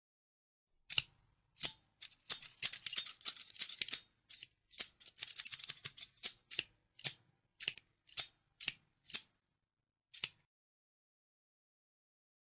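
Scissors snipping: short sharp snips, coming in quick runs between about two and six seconds in, then single snips spaced further apart until they stop about ten seconds in.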